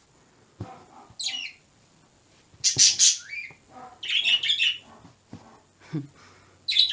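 Pet birds calling loudly: a series of high, harsh squawks and calls in clusters, starting about half a second in.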